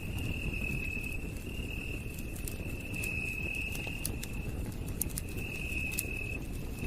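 Campfire crackling with scattered sharp pops over a low, steady rumble. Under it an insect, cricket-like, trills in high phrases about a second long, one after another.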